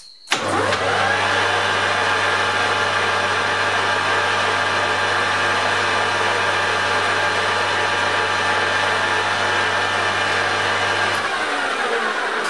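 Metal lathe switched on with a click, its electric motor and gearing running at a steady speed with a low hum and a whine while a small mark is put on the turning part. Near the end the motor is switched off and the lathe spins down with a falling pitch.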